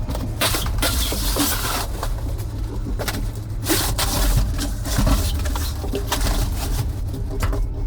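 A steady low rumble under irregular knocks, bumps and scrapes, typical of boxed appliances being handled and moved.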